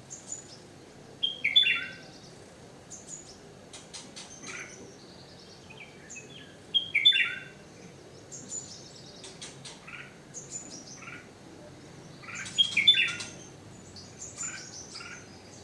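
Several small birds chirping and calling, with quick high chirps throughout. The loudest are three short calls that drop in pitch, about a second and a half in, at seven seconds and near thirteen seconds.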